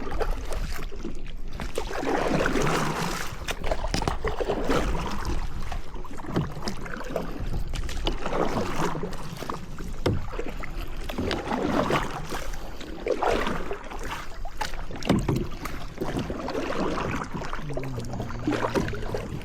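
Kayak paddle strokes swishing through lake water, one every second and a half or so, over a steady low rumble.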